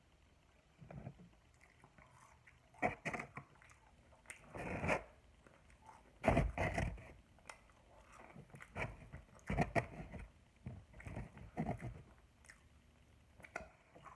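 Close-up eating sounds: irregular bites and chewing of a double cheeseburger and fries, with short crunching and wet mouth noises coming in separate bursts.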